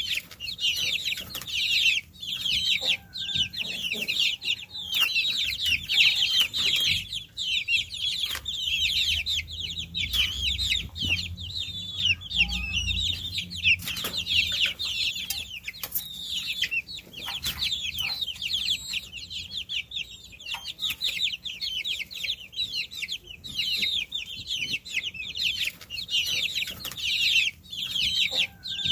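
A flock of baby chicks peeping continuously, many high-pitched chirps overlapping. A faint low rumble sounds under them about ten to thirteen seconds in.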